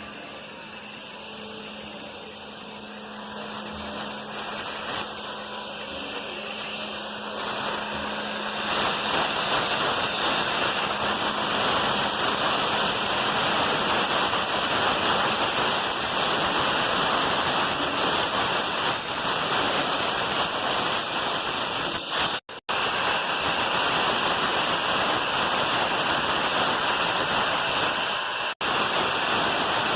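Steam hissing from a 1943 Baldwin S118-class narrow-gauge steam locomotive, building up over several seconds and then holding loud and steady.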